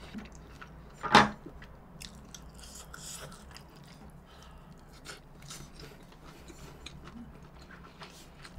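Close-miked chewing of fatty pork and rice: many small, wet mouth clicks and smacks, with one loud, short noise about a second in.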